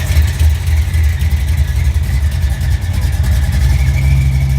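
Car engine running with a loud, steady low rumble.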